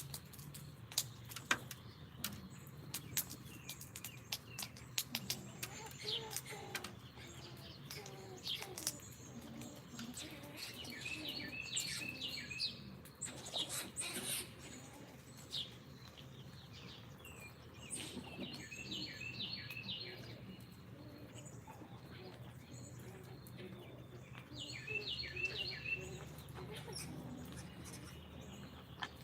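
Backyard songbirds singing: a phrase of quick, down-slurred whistled notes repeats several times, over scattered sharp clicks and taps and a steady low background hum.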